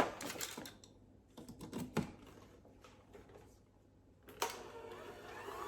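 Sharp clicks and knocks of attachments being fitted into an electric hand mixer, then a little over four seconds in the mixer's motor starts and runs steadily.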